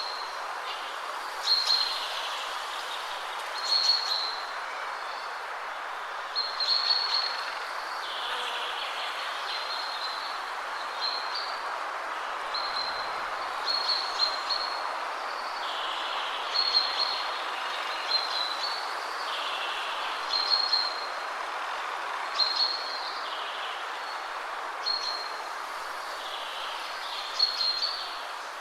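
Steady wind rushing through trees, with a songbird repeating a short, high call phrase about every two seconds.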